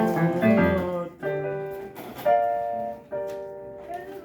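Piano-style keyboard being played: a new chord or note struck about every second, each held and fading away.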